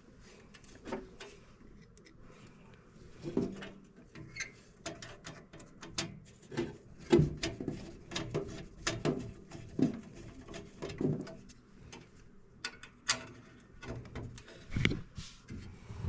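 Irregular clicks and knocks from a screwdriver and metal furnace parts being handled as the cleaned flame sensor is fitted back in.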